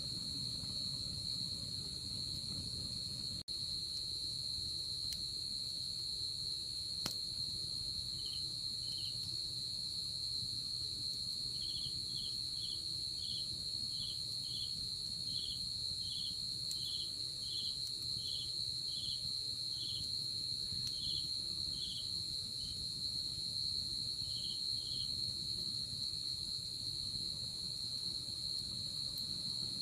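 Night insects: one keeps up a continuous high, steady trill, while a second chirps in short, evenly spaced pulses at a slightly lower pitch, about two a second, from about 8 seconds in until near 25 seconds. A single sharp click is heard about 7 seconds in.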